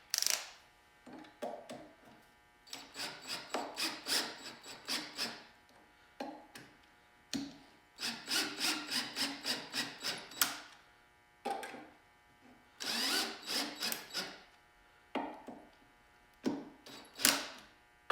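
Rhythmic scraping strokes of hand-tool work, several strokes a second, in runs of a few seconds with short pauses and single sharp knocks between them.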